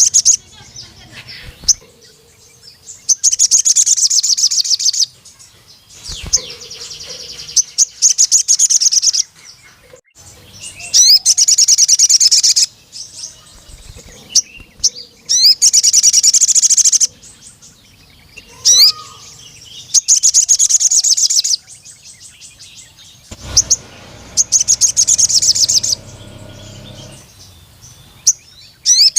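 Crimson sunbird (sogon) singing: a run of high, very fast trills about two seconds long, repeated every few seconds, with sharp short 'cuit' chirps between them.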